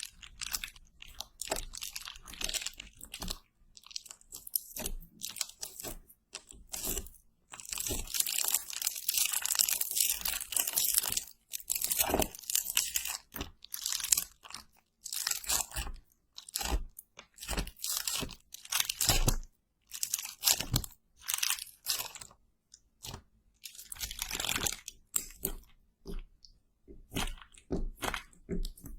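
Close-miked ASMR crunching and crackling in short irregular bursts, with a longer dense run of crackling from about eight to eleven seconds in.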